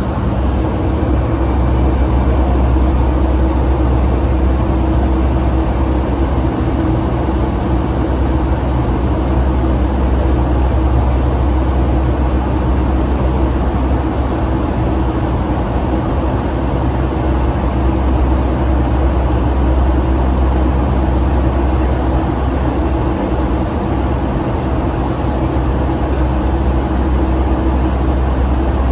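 Boeing 757-200 jet airliner heard from inside the cabin: a steady, loud drone of engines and airflow with a deep low hum and a few faint steady tones.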